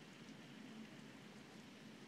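Faint steady rain.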